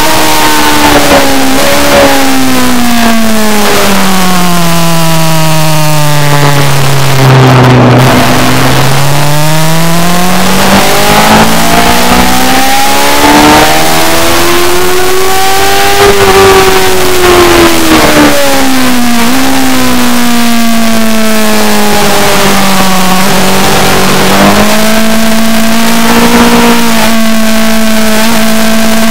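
A racing motorcycle engine running hard and loud through a lap section. Its pitch falls over the first eight seconds as the bike slows, climbs to a high point about sixteen seconds in, then drops back in small steps and holds steady, with a constant hiss of wind or air rush over it.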